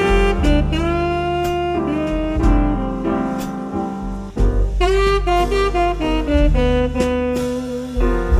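Jazz background music with a saxophone-like lead melody over a steady bass line, dipping briefly about four seconds in.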